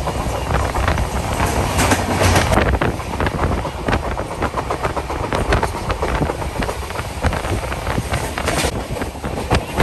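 Passenger train running at speed, heard from aboard: a steady rumble and rush of noise with frequent irregular clicks of the wheels over the track.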